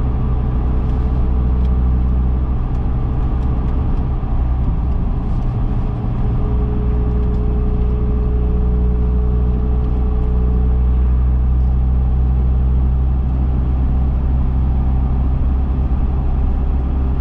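2010 Dodge Viper SRT10's 8.4-litre V10 running at a steady cruise with tyre and road noise, heard from inside the cabin as a deep, steady drone. Its note shifts slightly about four seconds in.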